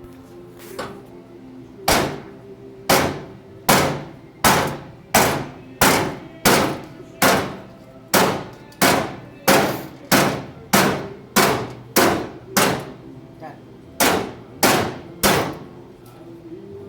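A hammer striking a car part again and again: about twenty sharp blows at a steady pace of well over one a second, with a short break about thirteen seconds in.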